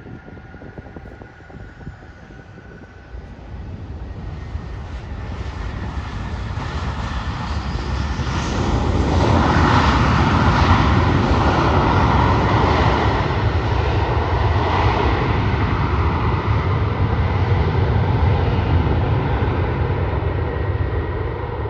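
Jet airliner's engines going by, the noise building for several seconds to a loud peak about halfway through, then slowly easing, with a faint steady whine over the rumble.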